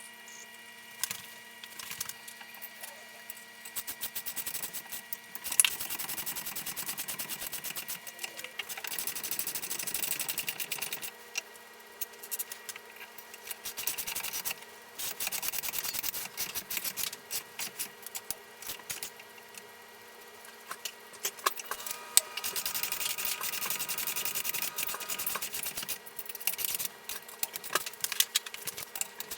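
Rapid mechanical ticking and rattling in runs of several seconds, with scattered sharp clicks, from metal parts being worked by hand.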